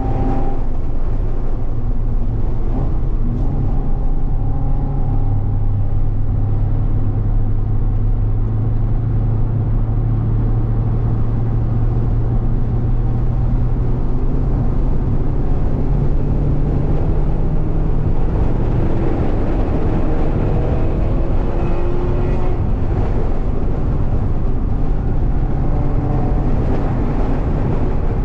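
Mazda MX-5's four-cylinder engine pulling hard at speed, heard from inside the cabin over steady road and wind noise. The engine note holds for long stretches and shifts in pitch a few times.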